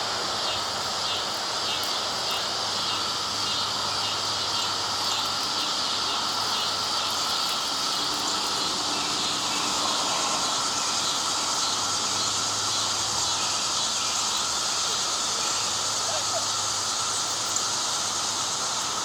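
Periodical cicada chorus: a steady, dense, high buzzing drone from many male cicadas singing at once to call females.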